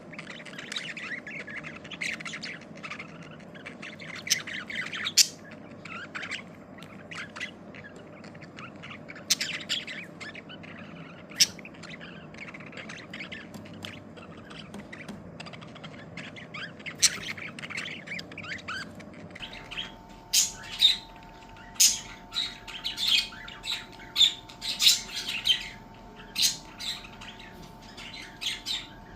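Pet budgerigars chirping and squawking, a busy stream of short, sharp calls. About two-thirds of the way through, the calls become louder and more spaced out, with a faint steady hum underneath.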